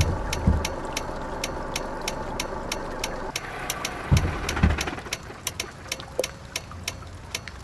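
Truck engine running steadily, with a fast even ticking of about four or five clicks a second. Twice there is a pair of low thumps about half a second apart: once at the start and once about four seconds in.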